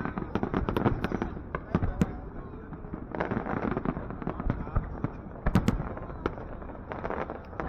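Fireworks display bursting in rapid, irregular bangs and crackles, with the loudest pair of bangs about five and a half seconds in. Crowd voices run underneath.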